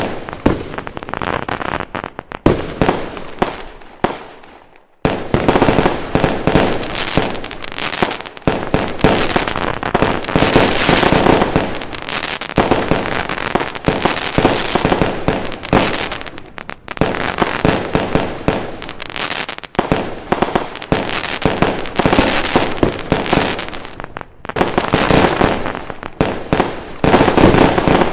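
Fireworks going off in a dense, continuous barrage of bangs and crackles, with a brief lull about four seconds in.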